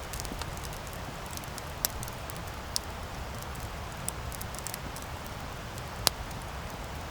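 Wood campfire burning: a steady low rush of flames with frequent crackles and sharp pops, the loudest just after six seconds in.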